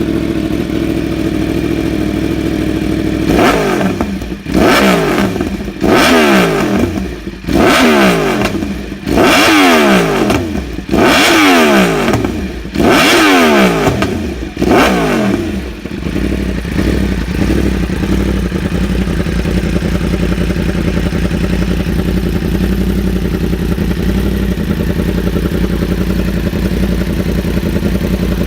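Yamaha R1 inline-four sportbike engine through an aftermarket exhaust: idling, then blipped through a quick series of about seven or eight sharp revs, each falling straight back, before settling into a steady idle again.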